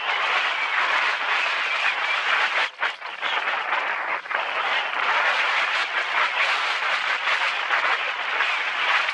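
Mountain bike descending a dirt trail: a steady rush of tyre and wind noise with rattling from the bike, dropping away briefly about three seconds in.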